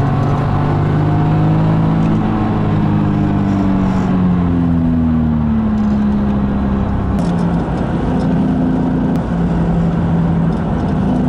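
BMW Z4 Clubsport engine heard from inside the cabin while lapping a race track. The engine note drops gradually over several seconds, then holds at a steadier pitch.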